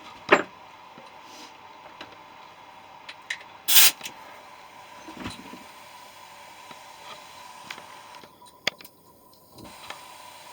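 Scattered knocks and clicks of metal parts and tools being handled while scrapping a compressor, with one brief loud hissing burst about four seconds in.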